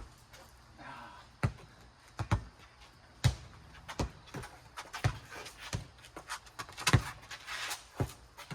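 A four square ball being played: about ten sharp smacks at uneven intervals as the ball bounces and is hit back and forth.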